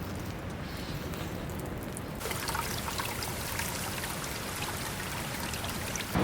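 Water trickling, the sound turning fuller and hissier about two seconds in, with faint ticks.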